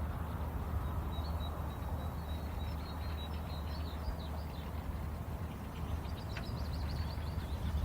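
High, short chirps from small birds, coming more thickly in the second half, over a steady low rumble.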